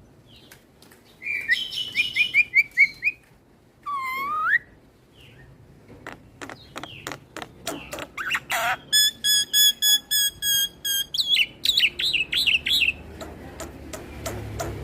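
Black-winged myna (jalak putih) singing a varied song. It opens with a quick chattering trill, then gives a sliding whistle about four seconds in and a string of sharp clicking notes. A long run of rapid buzzy repeated notes follows from about nine to eleven seconds, then quick chirps.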